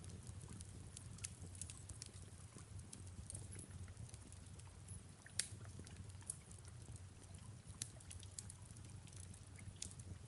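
Fireplace crackling: scattered sharp pops and snaps, the loudest about five seconds in, over a low steady rumble.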